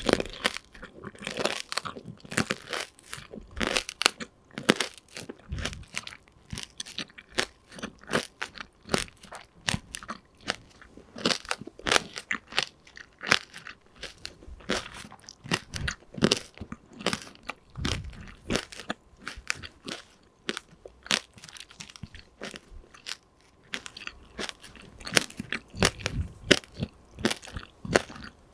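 Close-miked crunching and chewing of tanghulu, candied fruit in a hard sugar shell: many quick, irregular crunches as the shell cracks between the teeth.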